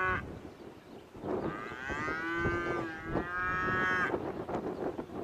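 A cow mooing: the tail of one call right at the start, then one long, drawn-out moo from about a second in until about four seconds in.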